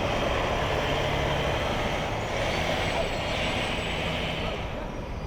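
City street traffic: vehicle engines running with a steady rush of street noise, and a brighter hiss swelling for about two seconds in the middle.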